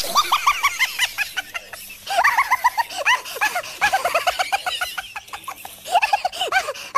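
Birds calling: many short chirping calls, rising and falling in pitch, overlapping in quick succession.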